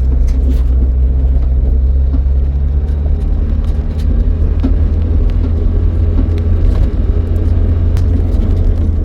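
Steady low rumble of a car driving, with a few faint clicks over it.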